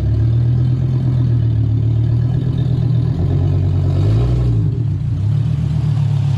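Hummer H3 engine running loud with a deep, steady drone, its pitch dipping briefly about four seconds in and coming back. The loudness comes from an exhaust fault, and the truck has no power.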